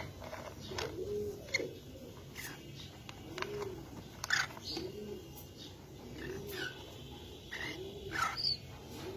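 Pigeons cooing: a string of short, low rising-and-falling coos, roughly one a second, with sharp high chirps in between.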